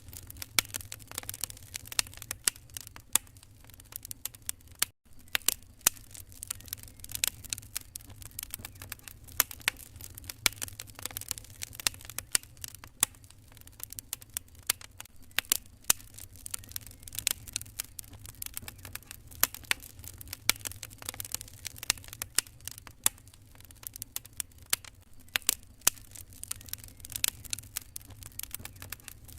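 Wood fire crackling in a fireplace: a dense, irregular run of sharp pops and snaps over a low steady rumble. The sound drops out for an instant about five seconds in.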